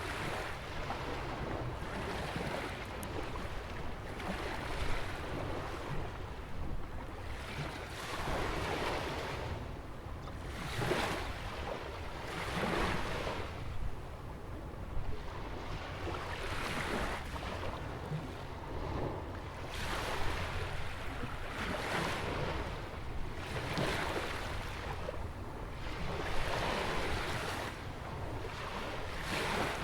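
Ocean waves washing against a rock jetty, rising in surges about every two seconds, with wind rumbling on the microphone underneath.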